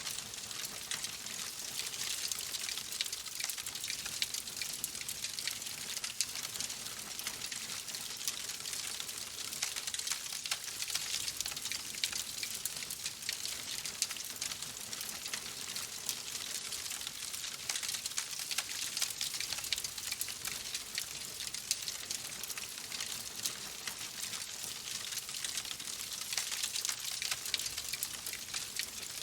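Wood fire crackling in a fireplace: a steady hiss of many small, rapid crackles and pops.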